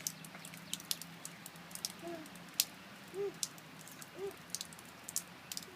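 Irregular patter of water drops, light scattered ticks, over a faint steady hum, with three short, soft coos from a small child.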